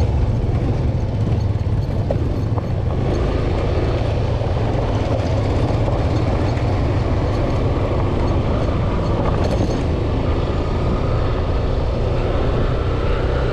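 Yamaha FZ-S V2 motorcycle's single-cylinder engine running steadily at riding speed, with wind and road noise on the onboard microphone.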